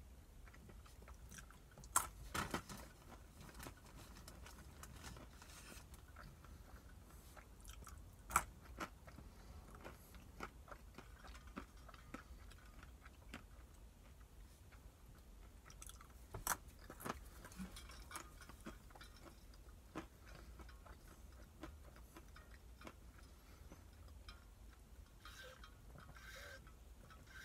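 A person chewing almonds: quiet crunching with a few sharper cracks spread through it. Near the end he takes a drink of water from a bottle.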